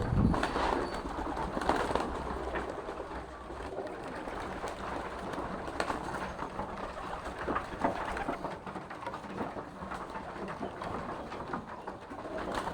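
Pigeons cooing, with scattered short knocks and scuffles among the birds.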